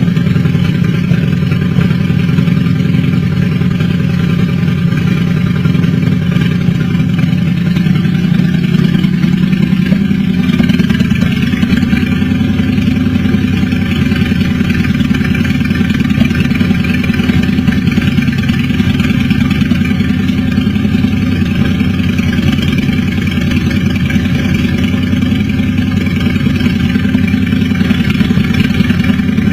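Motorcycle engine running steadily at a low, even pace, a rapid unbroken chain of exhaust pulses.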